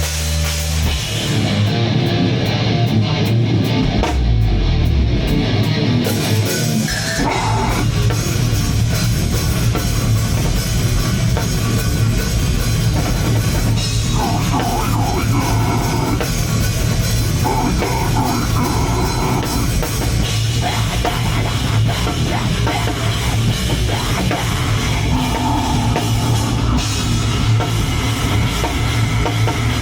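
A heavy metal band playing live: loud distorted guitars and a drum kit, with the full band coming in about a second in.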